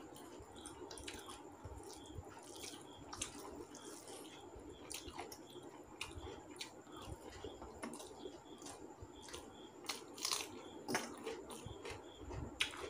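Faint close-up eating sounds: chewing, with wet squishing as rice and curry are mixed by hand on a steel plate, and small scattered clicks.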